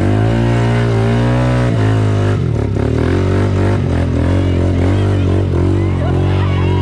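Quad bike (ATV) engine running at high level, its pitch rising and falling as it is revved.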